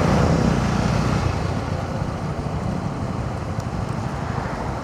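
Riding noise aboard a Honda CB125R motorcycle under way in traffic: a steady low rumble of wind over the microphone with engine and road noise beneath, easing a little after about a second and a half.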